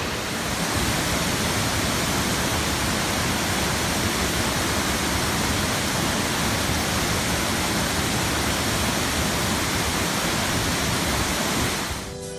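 Waterfall: a steady, even rush of falling water, fading slightly near the end.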